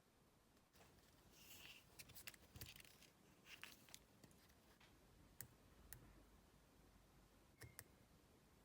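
Faint, scattered clicks and a few short scrapes of small hard parts being handled, with long quiet gaps between them.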